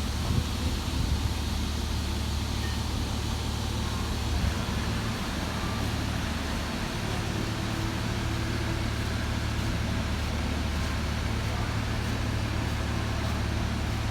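Heavy-equipment diesel engine running steadily, a continuous low rumble, with a faint hum joining in about a third of the way through.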